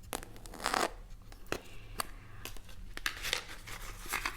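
Crinkling and rustling of packaging handled close to the microphone, with scattered light taps and clicks.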